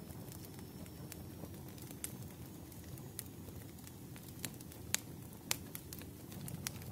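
Fireplace crackling: a steady low rumble of burning wood with scattered sharp pops, two of the loudest a little past the middle.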